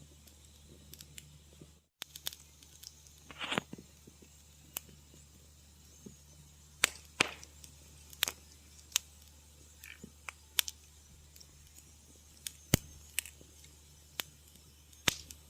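Wood fire in a fireplace crackling: irregular sharp pops and snaps, some loud and some faint, over a faint steady hiss and low hum. The sound drops out to silence briefly just before two seconds in.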